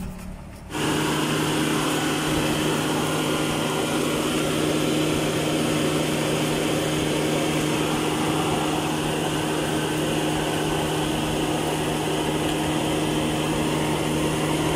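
Suzuki Multicab's engine bay running steadily with an even, unchanging hum, starting abruptly about a second in.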